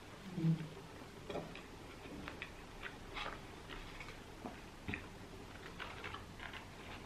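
A person chewing a mouthful of burger: irregular small wet clicks and smacks of the mouth, with a short low hum about half a second in.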